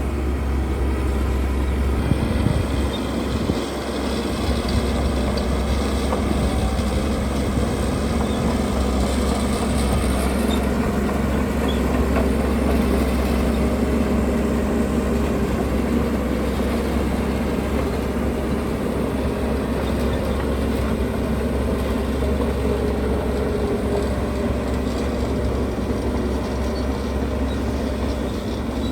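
Heavy diesel construction machinery running steadily under load, a deep continuous engine rumble.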